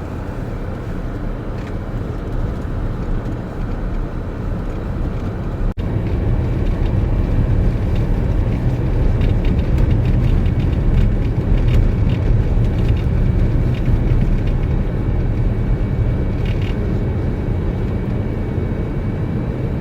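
A vehicle driving: steady, loud road and engine rumble, broken once by a brief dropout about six seconds in.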